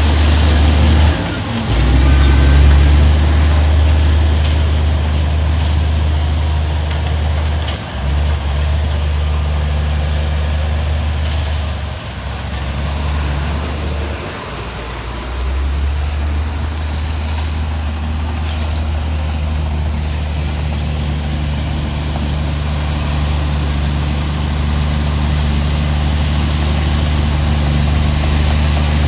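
Heavy diesel engine of earthmoving machinery running with a steady low drone. It dips briefly a few times in the first half, then holds steady.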